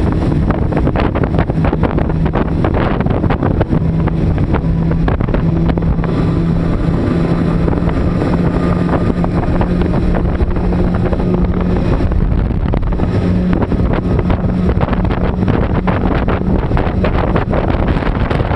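Twin 2020 Mercury Verado 400 HP supercharged inline-six outboards running at a steady speed with the boat under way. The engine drone holds one pitch, shifting slightly upward about halfway through, with wind buffeting the microphone and water rushing past the hull.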